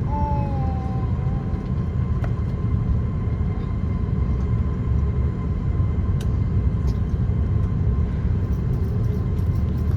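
Cabin noise inside an Airbus A340-300 with its four CFM56 engines running: a loud, steady low rumble with a faint steady whine. A brief wavering tone sounds near the start.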